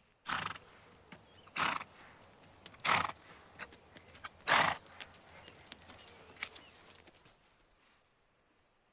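An animal making four loud, short rushes of sound over the first five seconds, with fainter ones in between that die away after about seven seconds.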